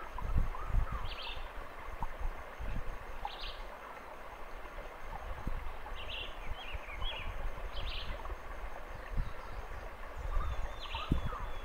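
A few short, high-pitched bird call notes spaced a couple of seconds apart, with a small cluster of quick notes in the middle, over a low rumbling background noise.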